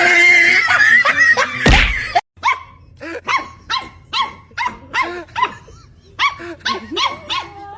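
A dog barking over and over in short, high yaps, about three a second. This follows a couple of seconds of loud mixed noise with a single thump.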